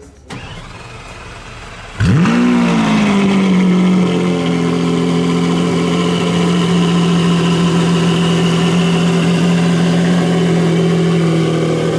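Lamborghini Centenario's naturally aspirated V12 cold start: a short stretch of cranking, then the engine catches about two seconds in with a rev flare that rises and falls back. It then holds a steady, fast cold idle.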